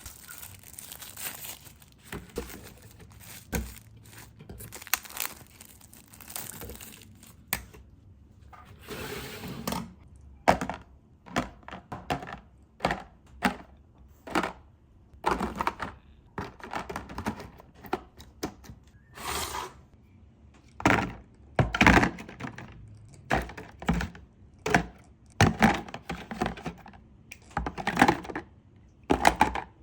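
Plastic containers and food packaging being handled and set down: irregular clacks and knocks with some crinkling of wrappers, sparse at first and busier and louder from about halfway.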